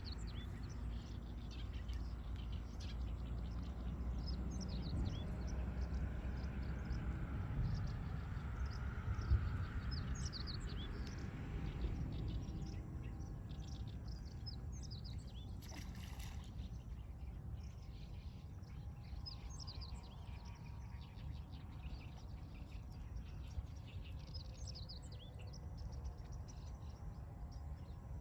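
Many small birds chirping and singing in short repeated calls over a steady low outdoor rumble, with a passing swell of noise through the first half and a brief hiss about halfway through.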